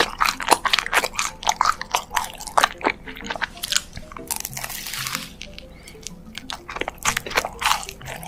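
Food being crunched and chewed close to the microphone, with many crisp crunches in quick succession. A brief hiss-like noise comes about halfway through.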